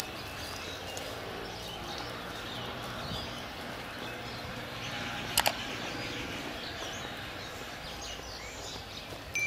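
Small birds chirping and calling over a steady outdoor background hiss, with one sharp double click about halfway through.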